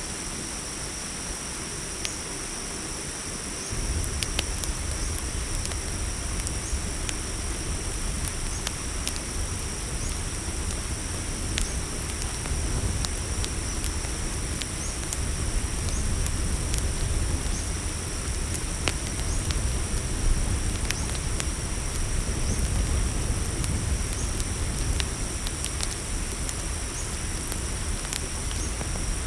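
Crickets chirring steadily at a high pitch over a crackling campfire, with sharp pops scattered throughout. A low rumble comes in about four seconds in.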